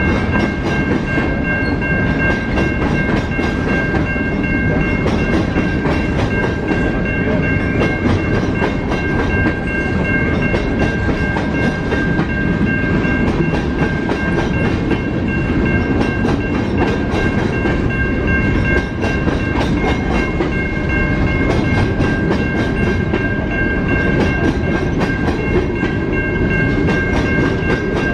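A train rolling steadily past on the rails, its wheels clicking over the rail joints in a regular beat. A steady high-pitched squeal, made of several tones, is held the whole time.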